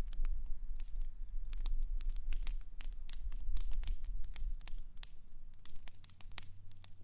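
Wood fire crackling: many sharp pops and snaps at irregular intervals over a low rumble that drops away about two-thirds of the way through.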